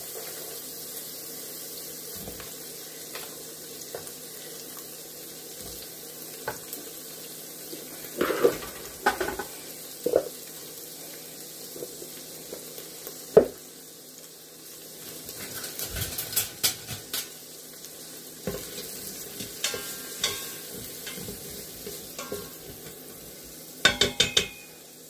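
Kitchen prep sounds: a knife knocking on a cutting board and utensils clinking as bell peppers are cut up. They come as scattered knocks, with a quick loud cluster near the end, over a steady background hiss.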